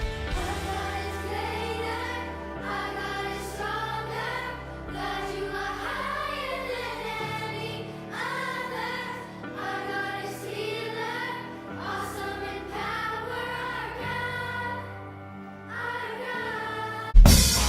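Christian worship song: voices singing together over sustained keyboard chords and bass, with held, gliding sung phrases. Near the end it cuts suddenly to much louder music.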